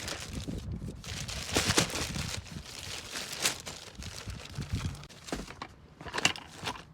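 Plastic crinkling and rustling in irregular bursts, with a few sharp clicks and knocks, as newly bought items are handled and unpacked.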